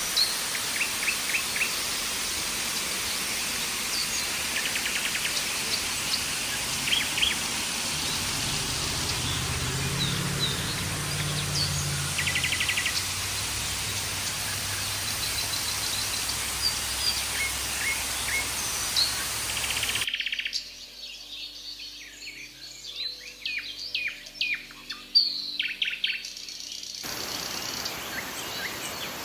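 Rainforest ambience: birds chirping and calling over a steady, dense high hiss. About two-thirds of the way through, the hiss cuts out abruptly and leaves clearer, sharper bird chirps on a quiet background. The hiss returns shortly before the end.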